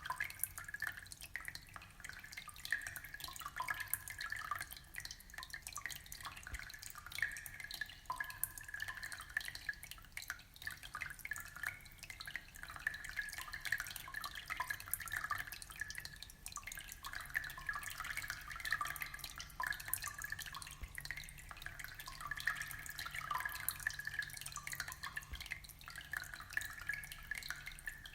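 Aquarium water trickling and dripping continuously, a busy patter of small splashes.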